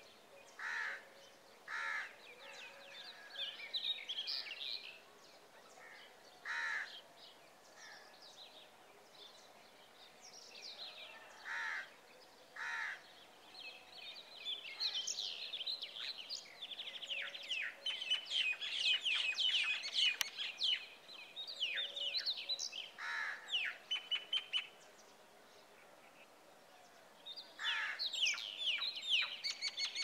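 Wild birds calling: short harsh calls at irregular intervals, with bouts of rapid high-pitched chattering in the middle and near the end.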